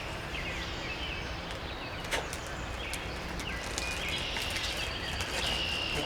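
Outdoor ambience with small birds chirping in short, scattered calls over a steady low background rumble, and a single sharp click about two seconds in.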